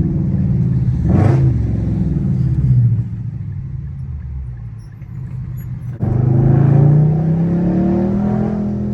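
Straight-piped Infiniti M56 5.6-litre V8 exhaust under way, with a short sharp burst about a second in. It goes quieter for a few seconds as the throttle eases off, then comes back loud about six seconds in, rising in pitch as the car accelerates.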